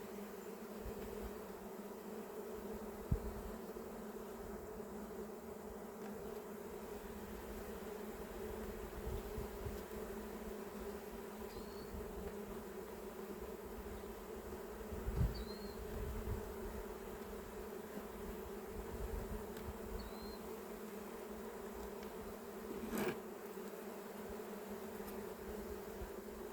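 Honeybees buzzing as a steady hum over an opened hive. A few low thumps and one sharp click about three-quarters of the way through break the hum.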